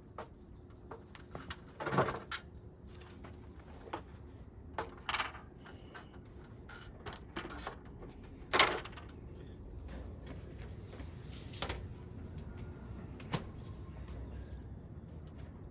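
Handling noises from screws and weather stripping being fitted by hand: scattered light clicks and rustles, with a few louder knocks about 2, 5, 9 and 12 seconds in.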